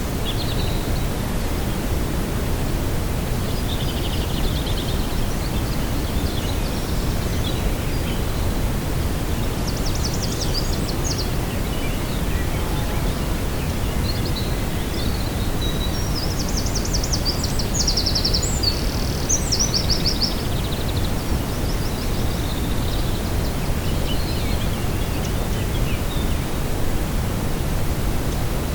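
Steady wind noise rushing over the microphone, with small birds singing brief high, rapid trills now and then, most clearly in a run of song past the middle.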